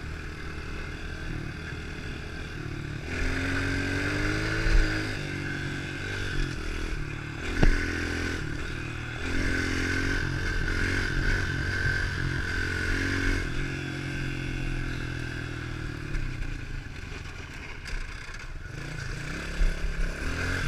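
110 cc pit bike engine revving up and falling back as it is ridden, its pitch rising and stepping through the gears. A few sharp clacks cut through it, the clearest about eight seconds in: a noise the rider suspects came from the gearbox or the brake, and probably not a good sign.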